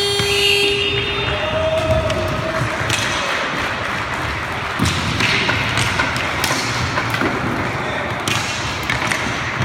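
A buzzing rink horn sounds and cuts off about a second in. Then comes a steady din of voices in the hall, with scattered sharp knocks of sticks and puck on the rink floor.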